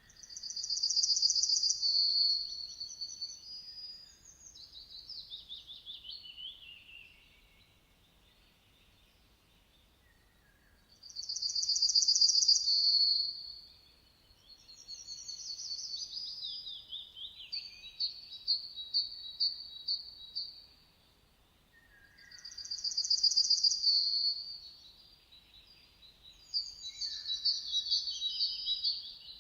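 Songbird singing high warbled phrases in bursts of a few seconds, repeating about every eleven seconds, with a fast trill of evenly spaced notes in the middle section. Short, lower-pitched notes come just before each burst.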